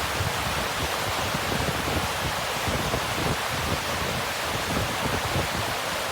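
Mountain stream and waterfall rushing: a steady, even wash of water noise with no let-up.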